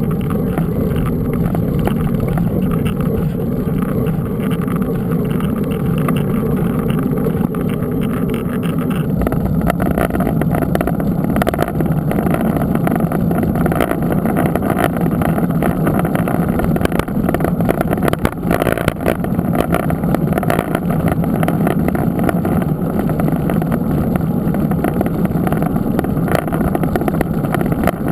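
Steady wind rush on the microphone with rolling tyre noise from a mountain bike being ridden, the noise filling out and getting brighter about nine seconds in.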